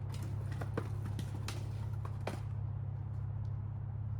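Truck engine idling with a steady low hum while several sharp wooden knocks in the first two seconds or so, from firewood logs clattering as the load is unloaded, then only a few faint ticks.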